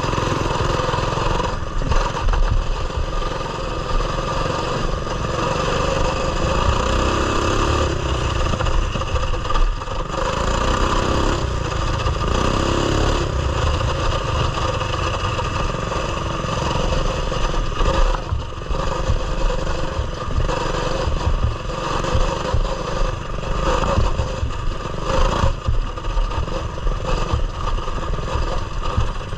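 Coleman mini bike's small single-cylinder engine running while ridden, its pitch rising and falling with the throttle, with several rises between about 6 and 13 seconds in.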